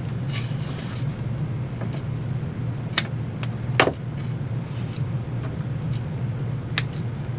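Steady low mechanical hum, with three sharp clicks from handling the work, about three, four and seven seconds in.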